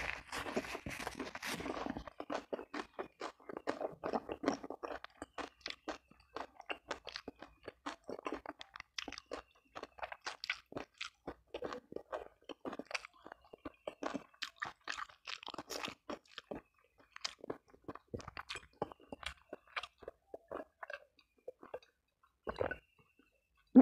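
Close-miked eating sounds from a person's mouth: chewing and wet lip-smacking, a steady run of short clicks, with a rustle of tissue in the first couple of seconds and a louder gulp near the end as a drink is taken.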